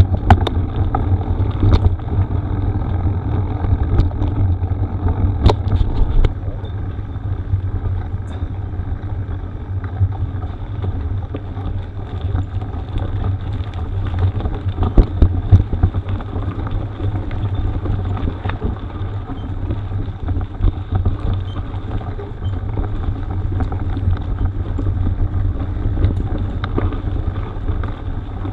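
Mountain bike riding over a rough gravel forest road: a steady low rumble of wind and tyre noise on the microphone, with frequent sharp clicks and knocks from stones and the bike rattling over the bumps.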